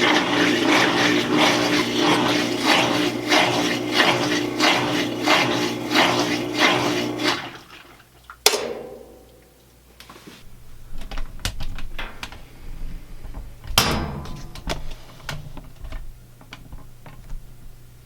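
Belt-drive washing machine at the end of its final spin: motor hum and a rhythmic swishing about twice a second, which stop about seven seconds in as the cycle ends. This is followed by a sharp clack with a short ringing tail, another sharp clack a few seconds later, and a few small clicks.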